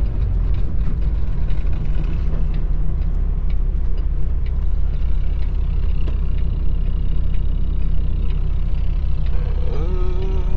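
Semi truck's diesel engine and road noise heard inside the cab while driving: a steady low rumble.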